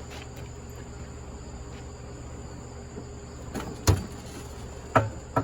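A few short knocks and clunks from handling the buffer's machinery, the loudest about four seconds in and two more close together near the end, over a steady faint background hum.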